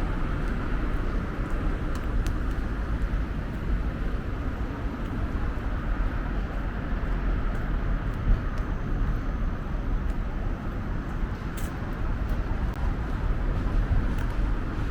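Steady street noise of road traffic, a continuous low rumble, with a couple of faint clicks.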